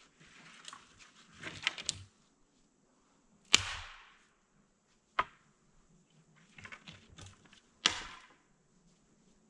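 Dry dead branches snapping as they are broken by hand for firewood: two loud sharp cracks, one about three and a half seconds in and one about eight seconds in, with a smaller snap and bursts of crackling and rustling twigs between.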